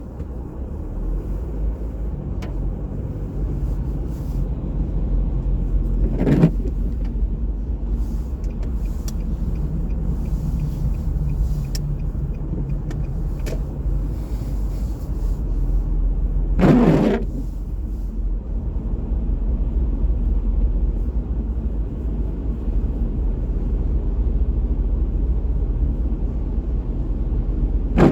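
Steady low rumble of city road traffic, with brief louder whooshes of vehicles about six, seventeen and twenty-eight seconds in.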